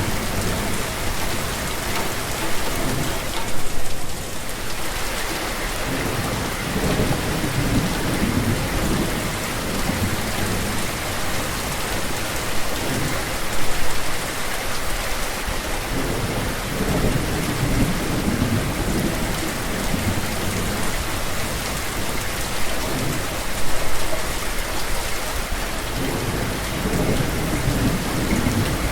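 Steady rain falling, with low rolling rumbles of thunder underneath. A brief louder swell comes about every ten seconds.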